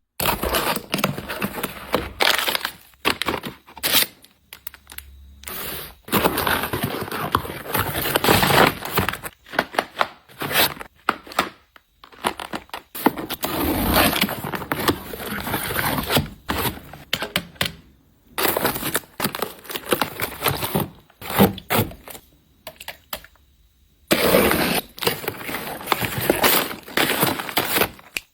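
Snack packaging being unpacked and handled: plastic wrappers and bags crinkling and rustling, with tearing and sharp clicks and taps of packets being set down, in irregular bursts with a couple of short pauses.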